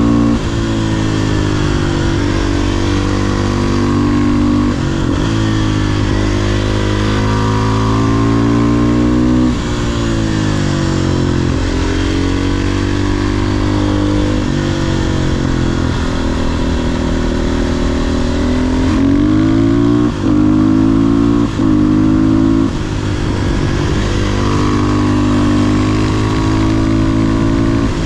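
500cc supermoto motorcycle engine accelerating and shifting, its pitch repeatedly climbing and dropping. It cuts out briefly twice, about twenty seconds in.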